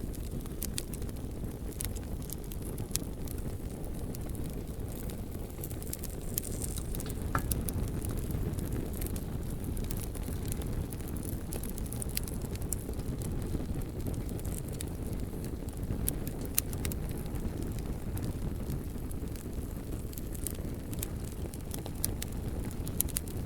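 Bonfire of burning logs: a steady low rumble with frequent sharp crackles and pops from the wood, a few of them louder than the rest.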